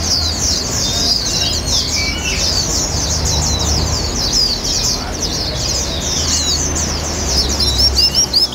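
Many caged songbirds chirping and singing at once in a dense, overlapping chatter, with a low rumble underneath. Near the end one bird gives a quick run of separate, sharp, repeated notes.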